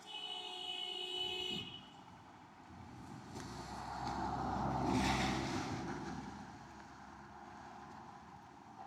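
A vehicle horn sounds once for about a second and a half. Then a passing vehicle grows louder and fades away, loudest about five seconds in.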